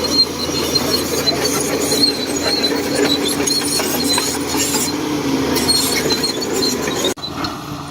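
Shantui DH17C2 crawler bulldozer running at work, its engine droning steadily under a high squeal and clanking from the steel tracks. The sound drops out abruptly for a moment about seven seconds in.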